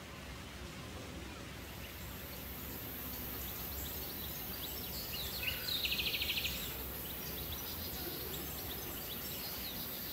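Steady ambient noise with faint small bird chirps throughout, and one short rapid trill of about a dozen notes a little past the middle.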